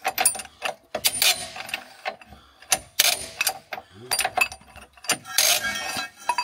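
Hand tools working on metal: several separate bouts of rapid ratchet-like clicking and metal clanks.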